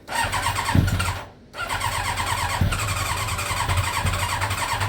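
Yamaha Thunderace's inline-four being cranked over with the choke on after a carburettor rebuild: a short burst of cranking, a brief break about a second and a half in, then a longer spell of cranking with an even repeating beat.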